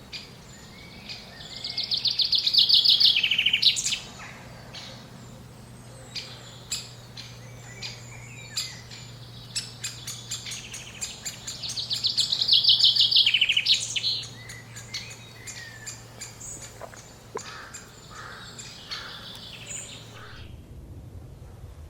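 A songbird singing two loud, fast trilled phrases, each about two seconds long and dropping in pitch at the end, roughly nine seconds apart, with scattered short chirps from other birds in between.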